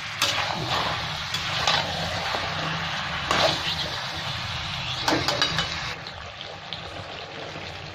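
Chicken pieces frying in oil and spices in an aluminium kadai, sizzling while a flat spatula turns them, with scrapes and knocks against the pan. The stirring stops about six seconds in and the sizzle carries on more quietly.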